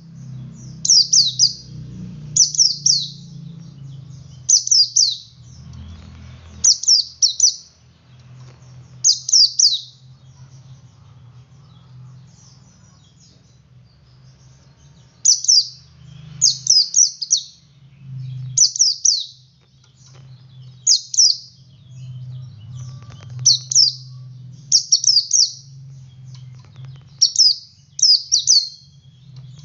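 Male white-eye (pleci) singing in the 'ngalas' style: short, loud phrases of quick high sweeping notes repeated every second or two, with a pause of a few seconds midway. A faint low hum runs underneath.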